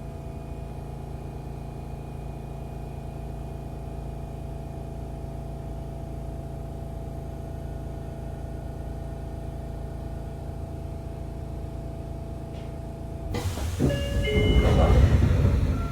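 Sotetsu 8000-series electric train standing in a station: its onboard electrical equipment gives a steady, even hum. About 13 seconds in, a sudden loud rush of noise with short whining tones starts as the train sets off, which fits the brakes releasing and the inverter-driven traction motors starting.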